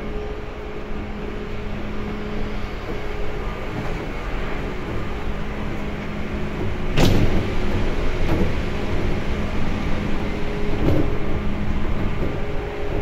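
Inside a Seibu 2000 series electric commuter train carriage: a steady rumble with a steady hum, and a sharp clank about seven seconds in, followed by two lighter knocks.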